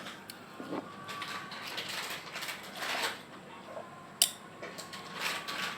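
Crispy snack being crunched and chewed close to the microphone, in short bursts about a second apart, with one sharp click about four seconds in.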